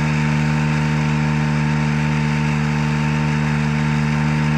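Engine on a forestry bucket truck running at a steady speed to drive the boom's hydraulics, an even hum that holds the same pitch and level throughout.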